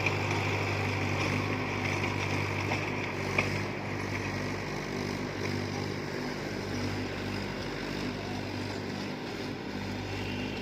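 Tractor engine running steadily at a constant low pitch, slightly quieter from about four seconds in, with a single sharp click a little before that.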